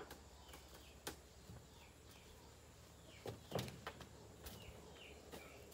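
Quiet outdoor ambience with faint bird chirps, short falling notes repeating every second or so, and a few soft knocks, the loudest a little past halfway.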